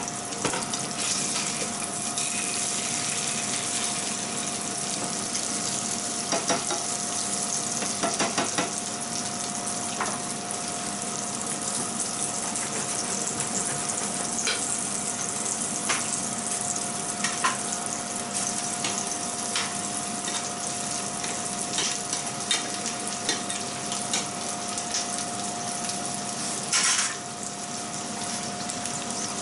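Tiger prawns and a sea bream fillet frying in butter in non-stick pans, a steady sizzle, with scattered clicks of a glass lid and utensil against the pan and a brief louder rush near the end as the prawn pan is moved.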